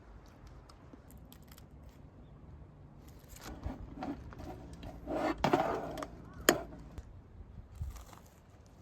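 Rustling and knocking of things being handled, with a sharp click about six and a half seconds in.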